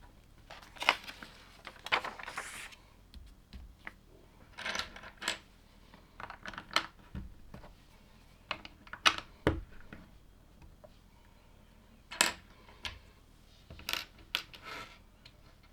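LEGO plastic pieces being handled and pressed together: irregular sharp clicks and short rattles, spaced out with quiet gaps.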